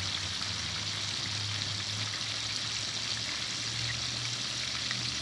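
Chicken pieces deep-frying in hot oil in a discada: a steady, even sizzle, with a faint low hum underneath.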